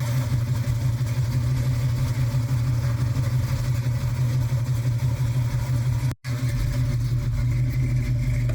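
1967 Chevrolet El Camino's engine idling steadily with a low, even exhaust hum, cut off briefly about six seconds in.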